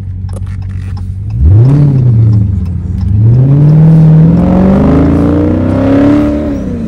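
Loud Dodge Challenger Scat Pack 392 Hemi V8 with a straight-piped exhaust, heard from inside the cabin during a hard acceleration pull. About a second and a half in, the revs jump and settle back. Then the engine note climbs steadily for about three seconds before the revs drop near the end.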